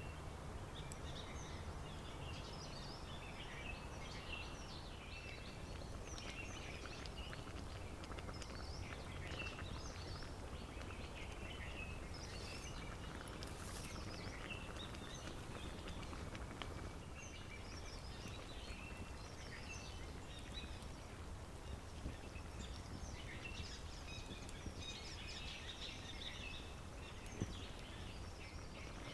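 Many small songbirds chirping and trilling at once, a busy overlapping dawn-chorus-like mix, over a steady low rumble, with a couple of sharp clicks near the end.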